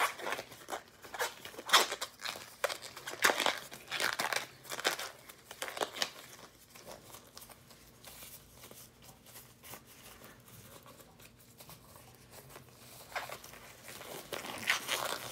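Crinkling and rustling of plastic wrappers and gloves as medical supplies are handled. It comes in irregular bursts for the first six seconds, goes quieter, then picks up again near the end.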